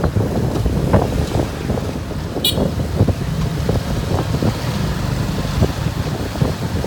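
Wind buffeting the microphone on a moving motorbike taxi, over a steady rumble of engine and road noise, with one short sharp high sound about two and a half seconds in.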